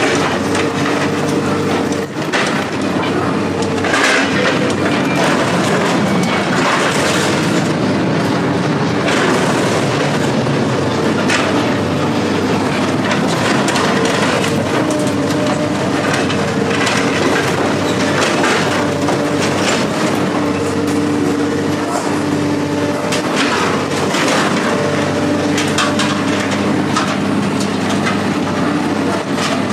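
Heavy diesel machinery running steadily while tearing apart scrap metal, with irregular clanks, cracks and crunching of metal throughout.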